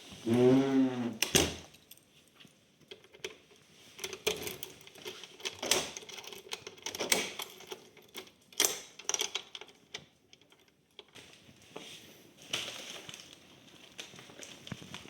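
A short pitched sound that bends in pitch, then irregular sharp clicks and clatters of small hard objects being handled.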